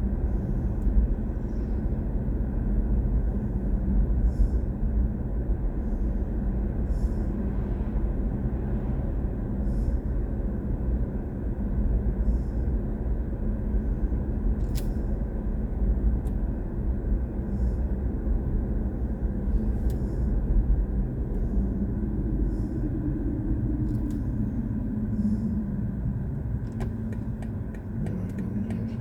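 Steady low road and tyre rumble of a BMW i4 M50 electric car being driven, with no engine sound, and faint high ticks about every two and a half seconds.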